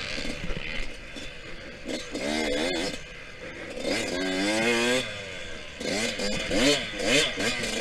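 Yamaha YZ125X 125cc two-stroke dirt bike engine racing around a track, revving up and falling off again about every two seconds as the rider works the throttle and shifts.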